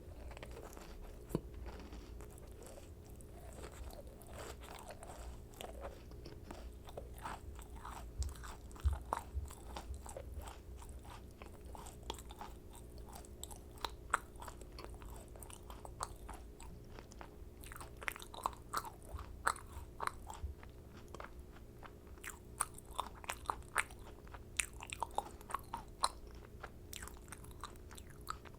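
Close-miked eating sounds of macarons: bites and chewing with crisp crackles from the shells, a steady patter of small sharp clicks that grows busier in the second half.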